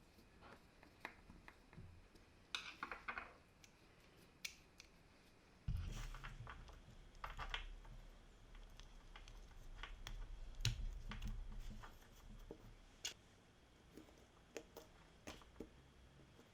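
Scattered light clicks and taps of small hard objects being handled, with a low hum from about six seconds in to about twelve.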